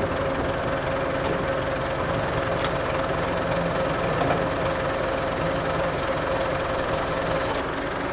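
Farm tractor engine running at a steady idle, with a steady whine over the engine sound.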